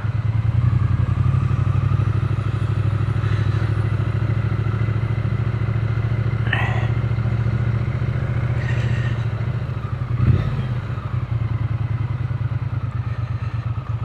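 Triumph Speed Twin 900's parallel-twin engine running steadily under way, heard from on the bike. There is a single thump about ten seconds in.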